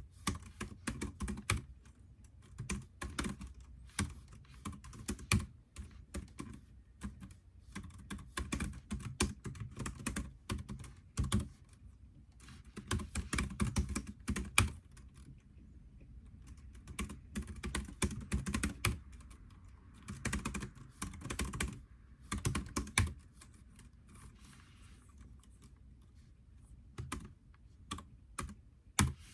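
Typing on a computer keyboard: runs of quick key clicks in bursts, with short pauses between them.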